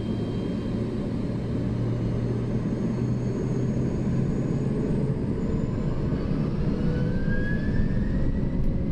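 McDonnell Douglas MD-11 freighter's three jet engines spooling up to takeoff thrust at the start of the takeoff roll, heard from the cockpit. A heavy rumble grows steadily louder, and a whine rises in pitch over the last few seconds.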